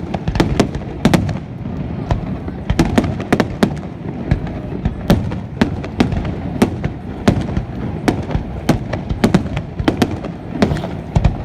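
Fireworks display going off: a rapid, irregular run of sharp bangs and cracks, several a second.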